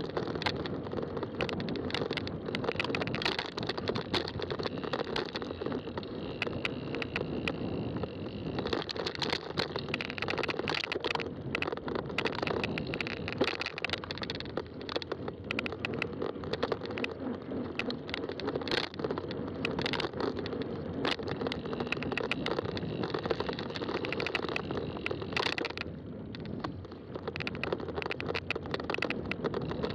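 Fat-tire bike riding along: continuous rolling tyre and drivetrain noise, with many small rattles and clicks.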